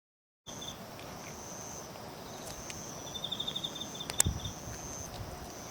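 Autumn insects calling, starting about half a second in: a high continuous trill in repeated long phrases, joined in the middle by a lower, rapidly pulsed chirping for about a second and a half. A single sharp knock sounds just after the middle.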